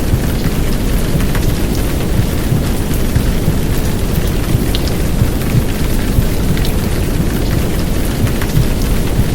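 Heavy downpour of rain, a steady wash of noise with scattered drop ticks, layered over a deep, dense womb sound of white noise and muffled heartbeat for lulling a baby to sleep.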